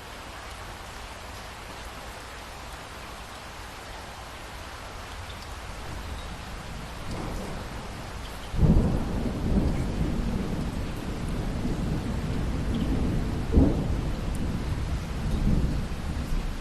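Steady rain with thunder: a low rumble builds, then a sudden loud thunderclap breaks about halfway through. Rolling rumbles follow, with another sharp crack a few seconds later.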